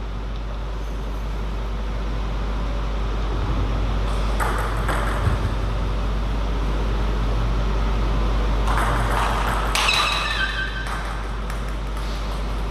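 Table tennis hall ambience: a steady low hum under the general noise of play, with louder stretches about four seconds in and again around nine to ten seconds.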